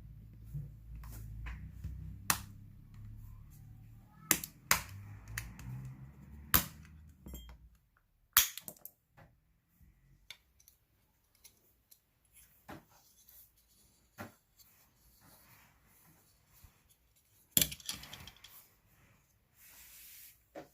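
Scattered sharp clicks and light knocks of small plastic parts and a screwdriver being handled while a hair clipper is taken apart, over a low handling rumble that stops about eight seconds in.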